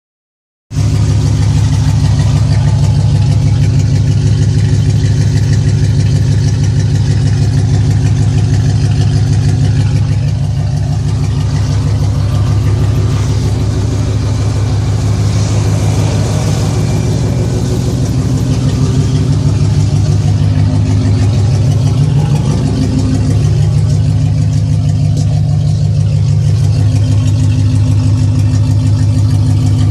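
C1500 pickup's exhaust, straight-piped from the manifolds through a catalytic converter with no muffler, idling loud and steady. It starts about a second in.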